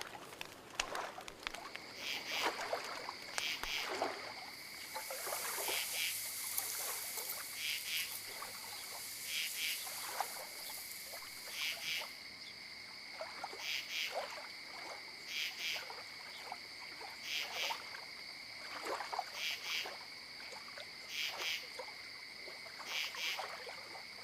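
Insects chirping in a steady high chorus, with chirps repeating roughly once a second. A soft hiss swells and fades away between about five and twelve seconds in.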